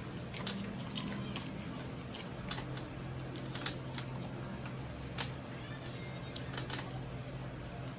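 Close-up eating sounds from chewing crispy pata (deep-fried pork knuckle): many small crackles, clicks and wet smacks, with the odd tap of cutlery or a plate, over a steady low hum.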